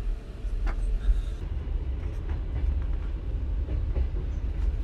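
Sleeper passenger train running, heard from inside the carriage: a steady low rumble with scattered short knocks and clicks.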